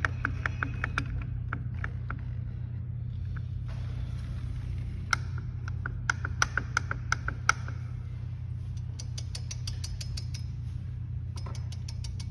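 Metal clicks and light taps from hand tools and parts on an Italika 250Z motorcycle's opened clutch, some of them ringing briefly, then a run of fast, even ticks in the last few seconds. A steady low hum sits underneath.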